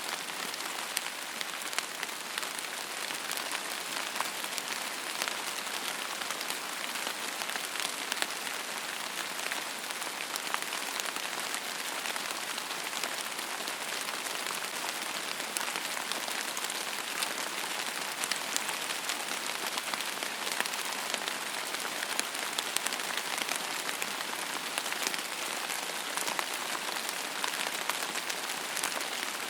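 Steady rain falling on a surface: an even hiss thick with the patter of countless small drops, with no thunder or music.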